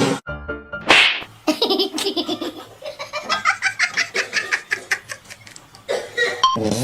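Laughter: a run of quick, repeated bursts of laughing that follows a short loud burst about a second in.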